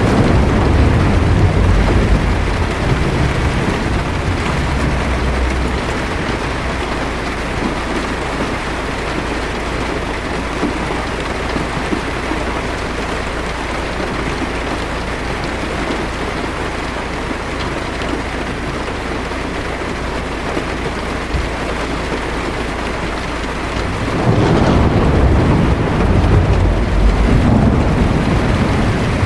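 Heavy rain drumming steadily on a car's roof and windshield, heard from inside the car, with low thunder rumbling near the start and again near the end.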